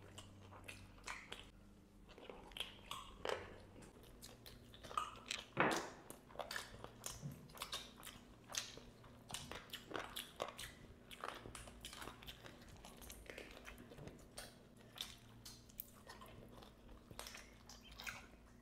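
Two people chewing and biting fried chicken leg pieces, picked up close on lapel microphones: a steady run of short wet chewing smacks and bites, with one louder bite a little over five seconds in.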